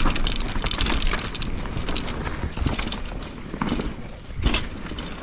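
Mountain bike riding down a wet trail: tyre noise and rattling knocks from the bike over roots and bumps, with wind rushing over the microphone. A sharper knock comes about four and a half seconds in.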